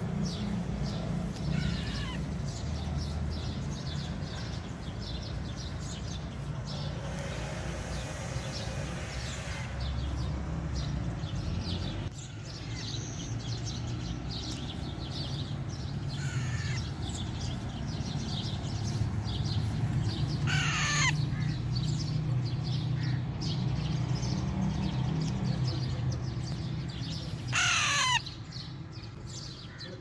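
Harsh, falling bird squawks, two loud ones in the last third, among many fainter chirps and calls of other birds, over a steady low hum.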